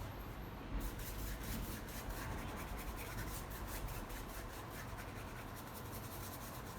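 Paintbrush stroking wet paint across canvas, a faint run of quick scratchy rubbing strokes as the wash is blended.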